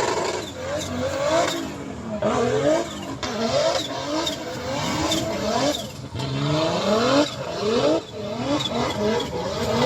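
Several vehicle engines revving again and again, their pitch rising in quick, overlapping sweeps.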